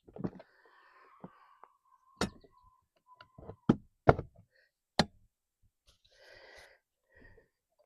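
Handling metal parts and tools while fitting a water pump on a Chrysler 15 hp outboard: about five sharp knocks and clicks spread irregularly, the loudest in the middle, with a short rustling scrape near the end.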